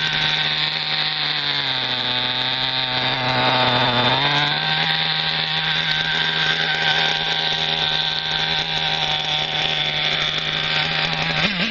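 Toki .27 nitro engine of a radio-controlled buggy running at a steady high pitch. The pitch drops lower about two seconds in and climbs back up a couple of seconds later.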